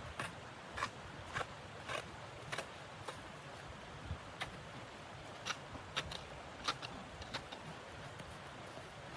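Footsteps crunching in snow, at first about two steps a second and then less evenly, over a steady background hiss.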